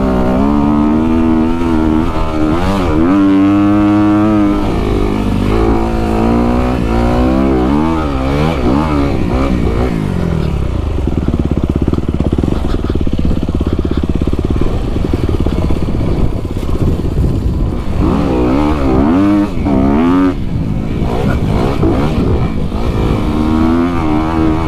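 Dirt bike engine on the throttle, its pitch climbing and dropping again and again as the rider opens and closes it and shifts gears, with a steadier stretch about halfway through.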